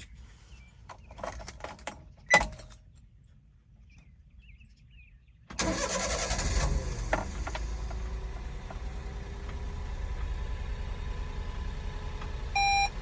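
A few clicks and a sharp knock, then a pause. About five and a half seconds in, a 1997 Honda Acty kei truck's small three-cylinder engine starts, catching at once and settling into a steady idle. Two short electronic beeps come near the end.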